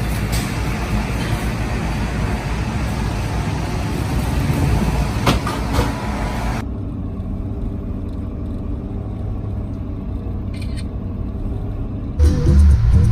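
Boat engine running steadily under way, with a rush of wind and water noise over it for about the first six and a half seconds. The rush then cuts off, leaving the engine's low hum. Music comes in near the end.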